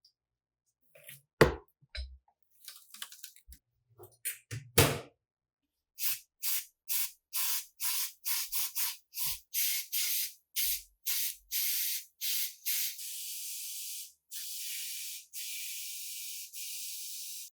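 A few scattered knocks and clicks of handling. Then a spray hissing in many short bursts, about two a second, followed by a steady spray for about four seconds near the end.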